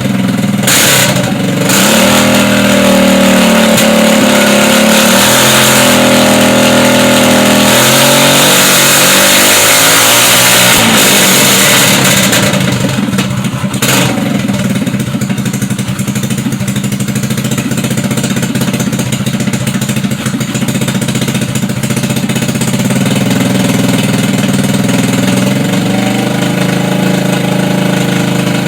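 GY6 150cc single-cylinder four-stroke scooter engine, fitted with a PWK 28 mm slide carburetor, running on a test bench: revved up and down for about the first twelve seconds, then settling to a steadier, lower idle.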